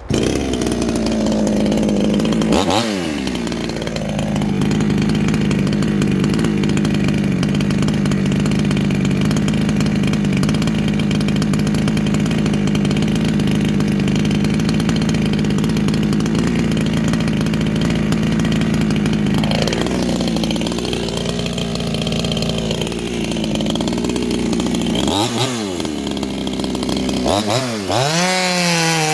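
A 58cc Chinese two-stroke chainsaw running at high revs, its note holding steady for most of the time. A brief dip comes about three seconds in. From about twenty seconds in the revs sag and waver, dropping sharply twice near the end before climbing back up.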